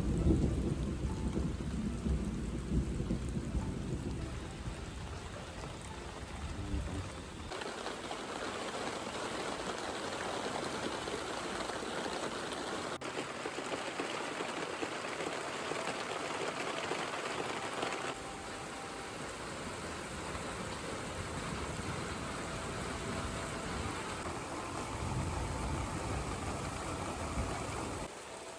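Thunder rumbling at the start and dying away over the first several seconds, then heavy rain pouring steadily in a thunderstorm.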